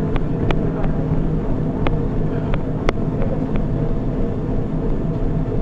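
Treadmill running: a steady motor and belt hum with scattered sharp clicks.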